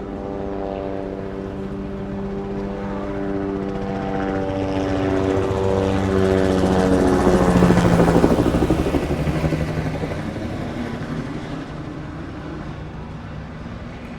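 An engine passes close by: its hum grows louder to a peak a little past the middle, the pitch drops as it goes past, and then it fades.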